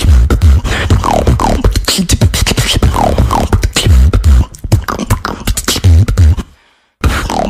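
Beatboxing: a fast, steady rhythm of deep bass kicks and sharp clicks, laced with falling-pitch vocal swoops. The sound thins out about halfway through, cuts to silence briefly near the end, then comes back in.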